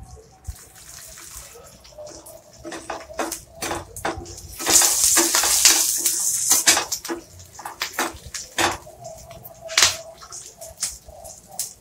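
Urad dal, coconut, chillies and garlic frying in oil in a steel kadai: sizzling and crackling with scattered sharp clicks, and a louder hiss for about two seconds near the middle.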